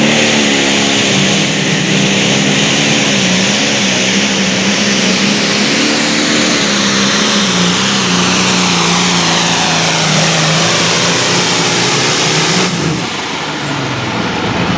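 A competition pulling vehicle's engine at full throttle under heavy load, its pitch and a high whine slowly falling as the sled bogs it down. About three-quarters of the way through, the loud high-end noise drops off suddenly and the engine carries on lower.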